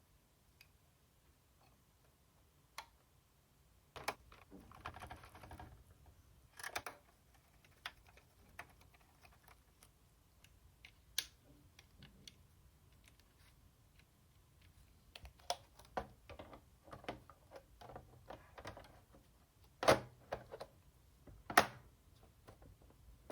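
Scattered small clicks and taps of hands handling console parts and tools during reassembly, with a short rustling scrape about four seconds in. Two louder knocks come near the end.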